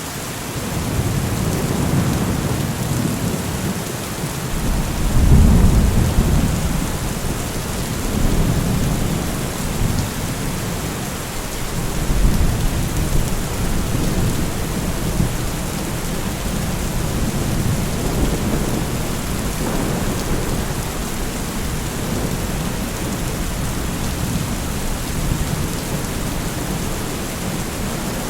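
Steady heavy rain with low rolling thunder rumbling underneath, swelling loudest about five seconds in and again near twelve seconds.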